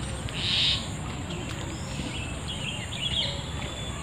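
Bird chirps over steady open-air background noise, a cluster of short chirps coming about two and a half to three seconds in. A brief hissing sound about half a second in is the loudest thing.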